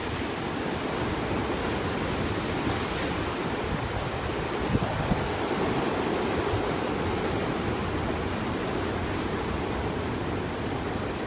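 Strong storm wind blowing as a steady rush of noise, with no clear gusts or breaks.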